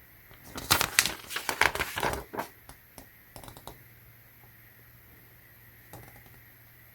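Packaging crinkling and rustling as it is handled, in a dense flurry of crackles for about two seconds near the start, then a few lighter crackles.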